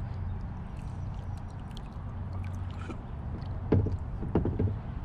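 Kayak sounds on the water: a steady low rumble, with a few sharp knocks nearly four seconds in and again half a second later.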